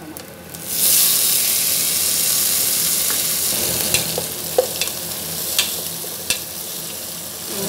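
Chopped tomatoes hitting hot oil in a steel pot and sizzling loudly from about a second in, holding steady and easing slightly. A metal spoon clicks against the pot about four times as the mixture is stirred.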